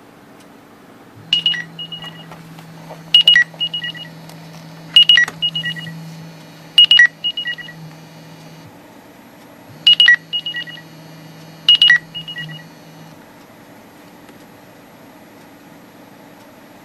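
Windows Phone ringtone ringing: a short bright chime figure, a strike followed by a couple of quick notes, repeating about every two seconds, four times, then after a short pause twice more. A low steady hum sounds underneath while it rings and stops with it.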